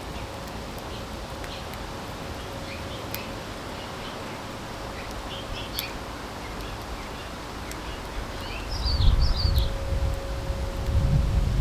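Small backyard songbirds chirping with scattered short calls and a quick burst of chirps about two-thirds of the way in, over a faint steady hum. A low rumble comes in over the last few seconds and is the loudest sound.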